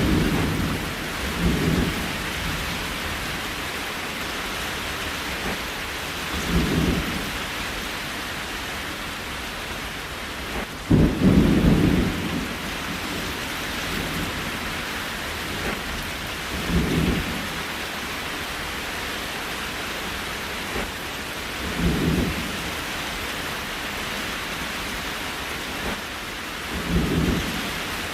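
Steady rain hiss, with short low rumbles swelling up about every five seconds; the loudest comes about eleven seconds in, with a sudden start.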